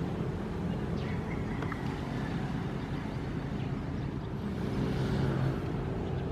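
Ocean waves: a steady low rumble of surf, with the wash of a wave swelling about five seconds in.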